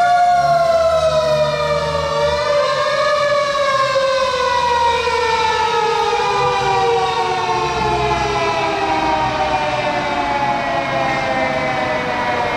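Tokyo Fire Department fire engine siren wailing, one long tone whose pitch slides slowly down, with a brief rise about two seconds in. A low engine rumble runs underneath.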